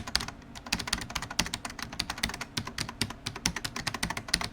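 Rapid, irregular clicks, roughly eight to ten a second, of a kind like fast tapping on keys.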